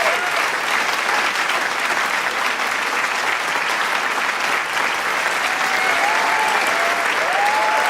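A large crowd applauding in a dense, steady wash of clapping, with a few cheers or whistles rising above it near the start and again in the last couple of seconds.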